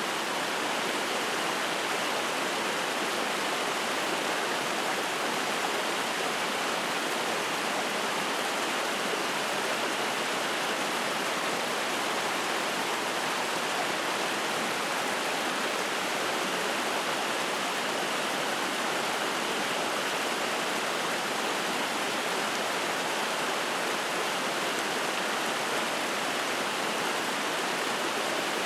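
Spring-fed mountain stream flowing and splashing: a steady, unbroken rush of water.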